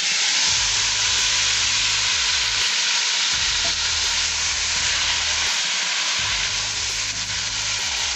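Chopped tomatoes dropped into hot oil in a deep cooking pot, setting off a loud, steady sizzle that starts suddenly as they go in and keeps on while they are stirred.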